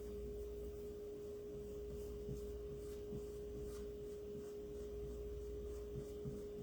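A steady, faint single-pitch tone held throughout over low hum, with soft light scrapes of chalk paste being scooped and spread.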